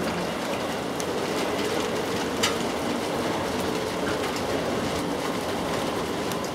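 Steady rain falling on grass and leaves, with a few sharp drips landing close by.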